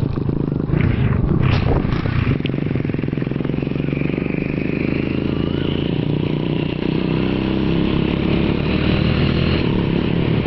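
Honda Wave 110i motorcycle's small single-cylinder four-stroke engine, fitted with a Honda CB throttle body, running steadily under way. A few brief clattering knocks come about one to two seconds in.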